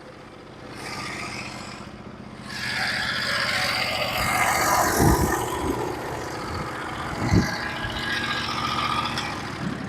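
The sawmill's 18 hp Vanguard V-twin engine running steadily, with a louder rushing noise swelling up about two and a half seconds in and two knocks around five and seven seconds.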